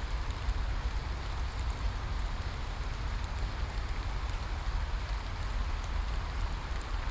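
Steady rain falling, an even hiss with scattered fine drop ticks and a constant low rumble underneath.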